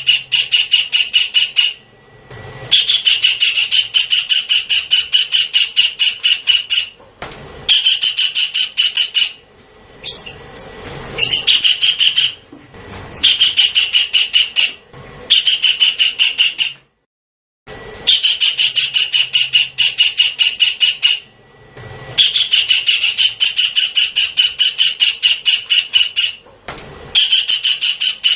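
Javan kingfisher calling in loud, rapid rattling series of harsh notes, each series lasting a few seconds with short pauses between, played as a recorded lure call. The sound drops out completely for about a second around the middle.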